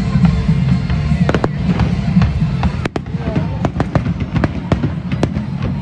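Aerial firework shells bursting: a run of sharp bangs and crackles, sparse at first and coming thick and fast from about a second and a half in, over background music.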